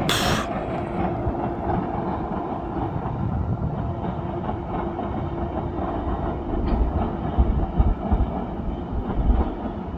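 Norfolk Southern mixed freight train rolling past, a steady rumble of freight cars with wheels clacking over rail joints. A short burst of hiss comes right at the start.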